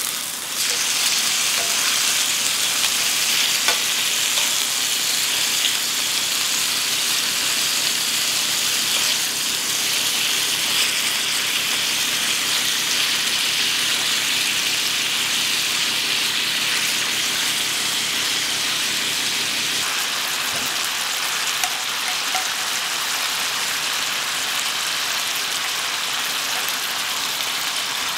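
Chicken thigh fillets sizzling steadily in hot oil in a frying pan.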